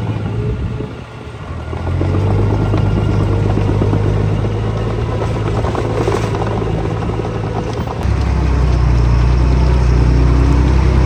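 Heavy diesel engine of earth-moving machinery running with a steady low drone. It dips briefly about a second in, comes back up, and grows louder and deeper about eight seconds in, as if put under more load.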